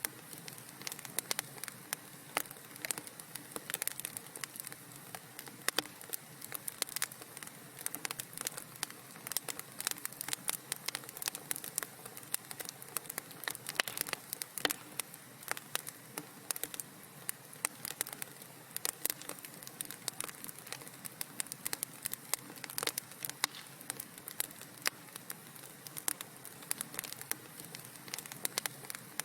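Wood fire burning in a fireplace, crackling and popping continuously with many irregular sharp snaps over a steady soft hiss.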